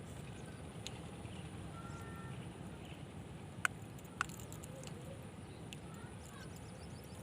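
Outdoor wind rumbling steadily on the microphone, with two sharp clicks a little past halfway and a few faint short chirps.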